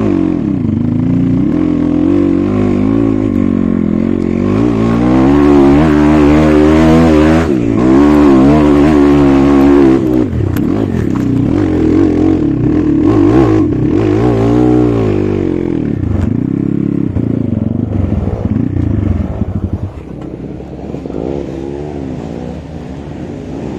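Dirt bike engine running under the rider, its pitch rising and falling with the throttle as it rides over rough dirt, then settling to a quieter, steadier run about twenty seconds in as the bike comes to a stop.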